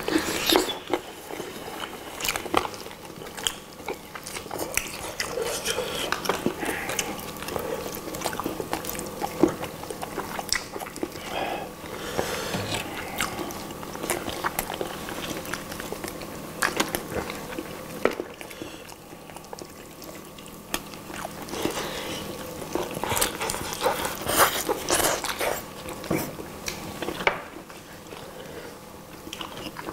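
Close-miked eating sounds: several people biting and chewing grilled chicken legs, with wet smacking mouth noises and many short sharp clicks.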